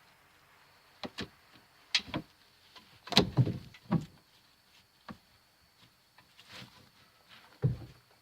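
Scattered, irregular knocks, clicks and scrapes of hands working a belt and its buckle around a car's oil filter under the engine, with the loudest cluster about three seconds in.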